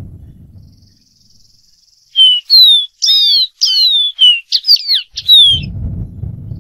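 Dark-throated seedeater singing: a quick phrase of about a dozen clear whistled notes, mostly slurring downward, lasting about three and a half seconds. A low rumbling noise fades out in the first second and comes back near the end.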